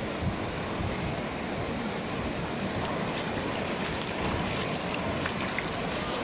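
Steady wash of ocean surf on the beach, with faint light clicks in the second half.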